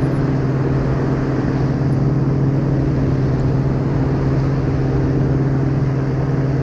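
Paratrike engine and propeller running at a steady cruise in flight, a constant even drone, with wind rushing over the helmet-mounted microphone.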